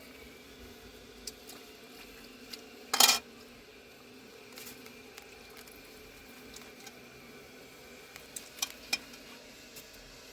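Cookware clattering: one loud sharp clatter about three seconds in, then a few lighter clicks and knocks near the end, over a faint steady hum.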